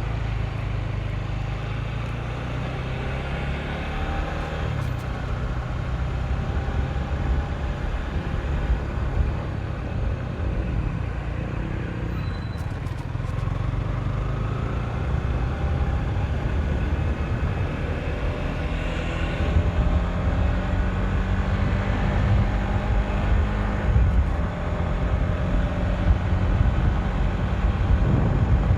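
Motorcycle being ridden on the road, its engine running under a heavy low rumble of wind on the microphone; the engine note steps to a new pitch about five seconds in and again past the middle.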